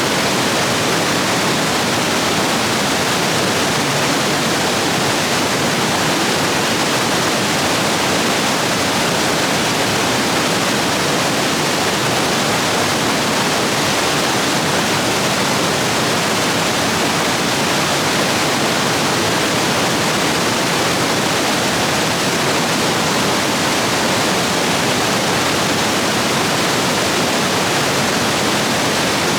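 Stream rapids rushing, swollen after heavy rain: a loud, steady roar of white water.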